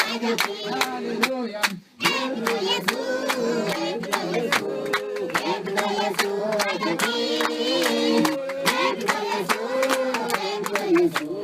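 A group of voices, children among them, singing together in a congregational song with steady hand clapping. The sound cuts out briefly about two seconds in and then resumes.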